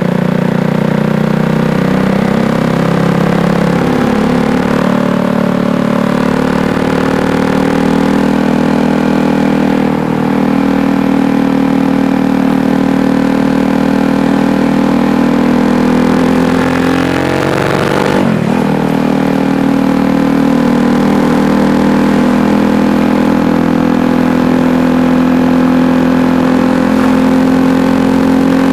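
KTM Duke 390's single-cylinder engine running steadily while riding. The engine speed dips slightly about four seconds in, then drops sharply and climbs again about eighteen seconds in.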